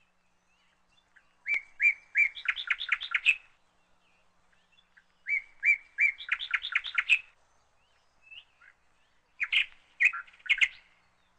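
A bird singing three short phrases about four seconds apart. Each phrase opens with a few separate notes and runs into a quick string of notes, the last phrase shorter.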